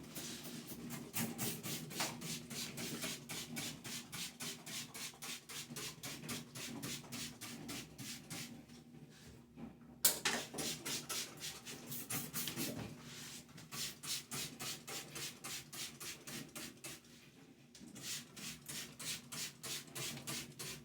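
Rhythmic back-and-forth brushing strokes, about three to four a second, stopping briefly twice, with a sharp click about halfway through.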